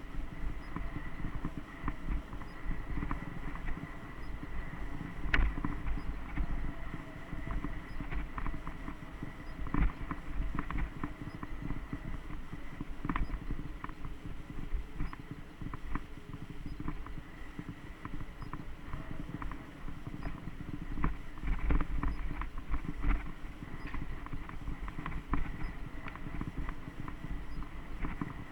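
Mountain bike riding over a dirt trail: a continuous low rumble of tyres on the ground, with frequent rattles and knocks from the bike over bumps.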